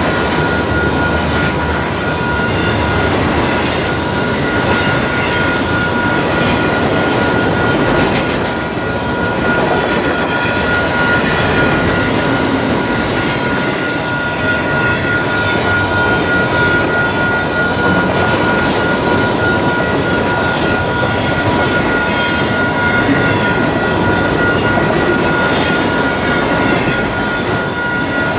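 Train rolling past: a steady, loud noise of wheels on rails with a faint, steady high whine over it.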